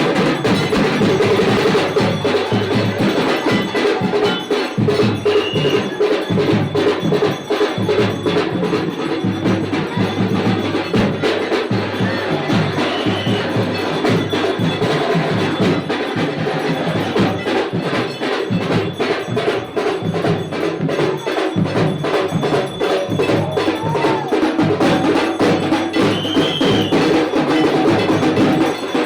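Puja percussion: bells and drums struck continuously in fast, dense strokes over a steady ringing of bells.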